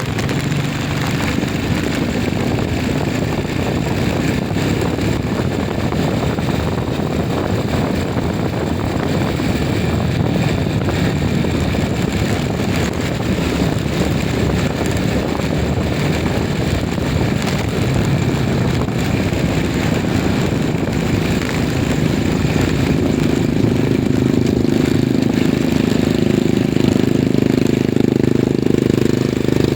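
A vehicle engine running under way over steady wind and road noise. The engine grows louder in the last several seconds.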